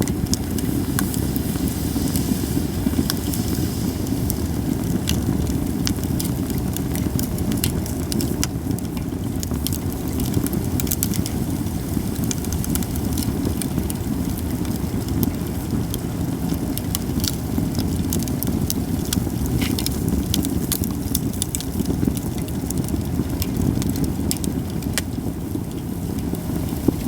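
Cedar-wood campfire crackling, with frequent sharp pops scattered throughout over a steady low rumble.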